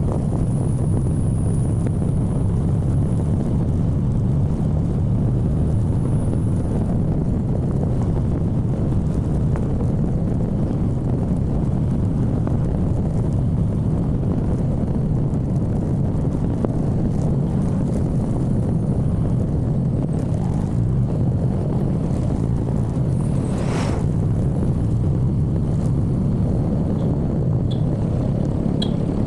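Steady rumble of a motorcycle ride, with wind and engine noise running evenly throughout. There is one brief sharp sound about four-fifths of the way through.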